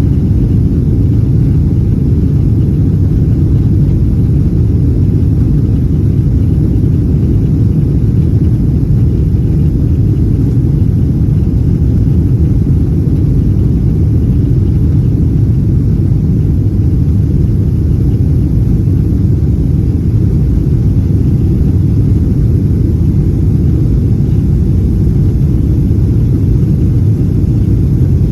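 Boeing 777 cabin noise during takeoff: a loud, steady low rumble of engines and airframe, heard from a window seat.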